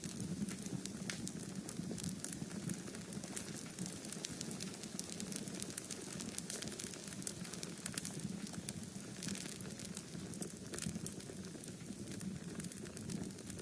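Wood fire in a fireplace crackling steadily, with frequent sharp pops at irregular times over a low hiss of flames.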